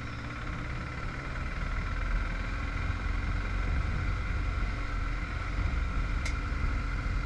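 Vehicle on the move: steady engine and road rumble, with a single sharp click about six seconds in.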